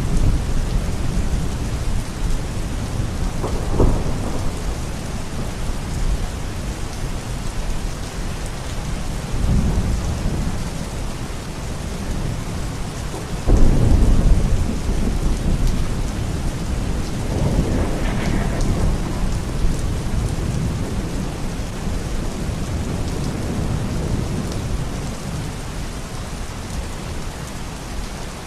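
Steady rain falling hard, with several rolls of thunder rumbling through it; the loudest clap starts suddenly about halfway through.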